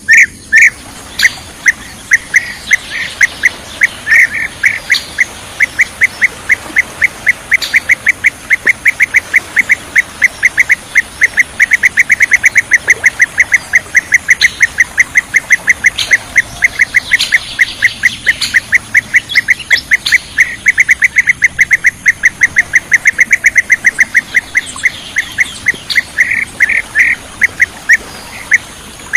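Bee-eater (kirik-kirik) calls, a rapid, unbroken string of short, loud chirps at about four or five a second, of the kind played as a lure call for trapping these birds.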